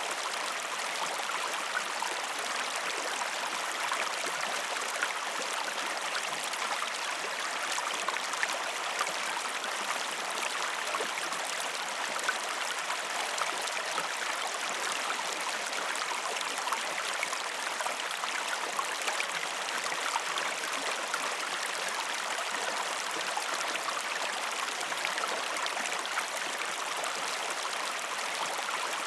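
Waterfall: a steady rush of falling water, with fine splashing throughout.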